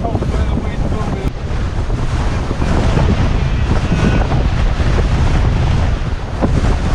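Strong, gusting mountain wind buffeting the microphone: a loud, continuous low rumble.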